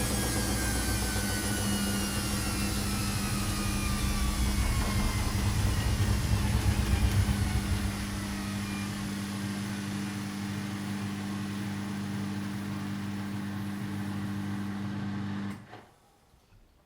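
Washing machine slowing down: a whine falls steadily in pitch and a heavy low rumble drops away about halfway through, leaving a steady hum. The hum cuts off abruptly about a second before the end, with a click.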